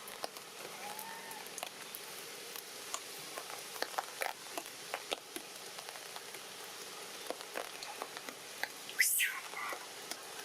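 Rain falling: a steady hiss with scattered drops pattering and ticking. A brief, sharp, high-pitched sound comes near the end.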